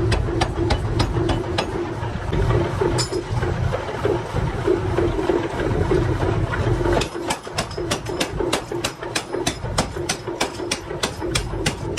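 Metal being struck in an even, rapid rhythm of about two to three blows a second, typical of a mechanical power hammer, over a steady machine rumble. The rumble drops away about seven seconds in, and the blows then come slightly faster.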